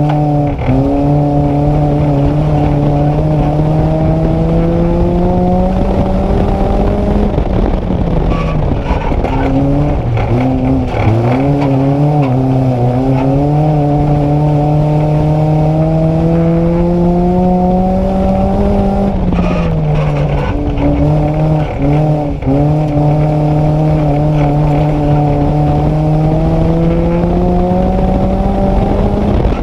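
Onboard sound of a Nissan Micra race car's engine pulling hard, its revs climbing slowly for several seconds at a time. Twice, about a quarter of the way in and again about two-thirds in, the revs drop and stutter briefly before climbing again.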